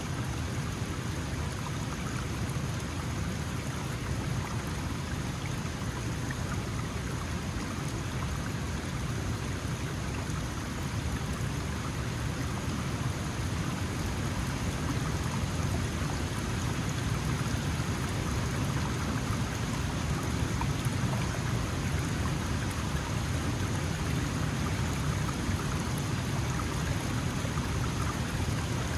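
Small mountain stream flowing steadily over stones, a constant splashing rush of water with a deep low rumble.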